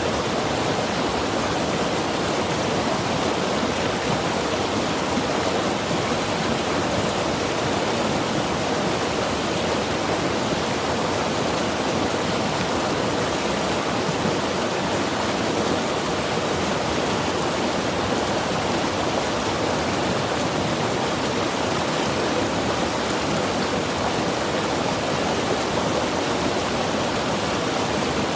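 Mountain river rushing steadily over rocks: a constant, even rush of flowing water with no breaks.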